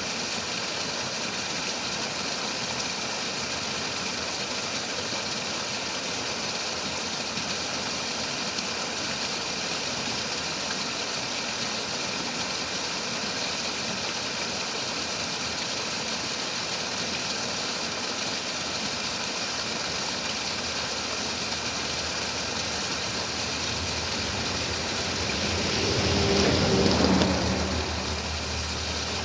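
Steady rush of flowing water. Near the end a louder low rumble with a faint hum swells up and falls away.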